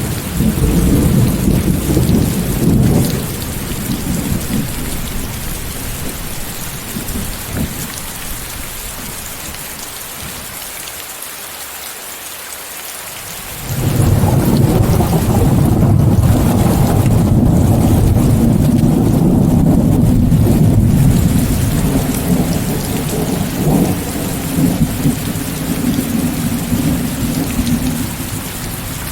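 Steady rain hiss with rolling thunder. A long rumble at the start dies away, and a fresh peal breaks in suddenly about fourteen seconds in, rumbling for several seconds before easing under the rain.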